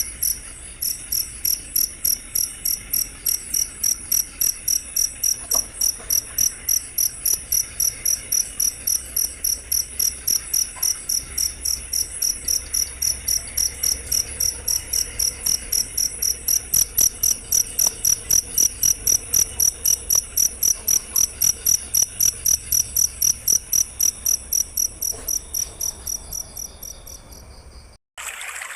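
Cricket chirping in a fast, even rhythm of high-pitched pulses, about three a second. It cuts off abruptly near the end.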